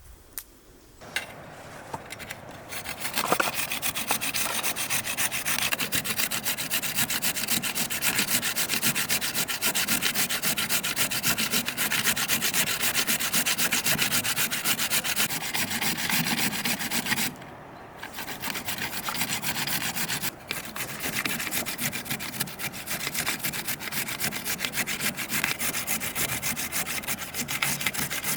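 Rapid, continuous rubbing strokes, with a brief pause about seventeen seconds in.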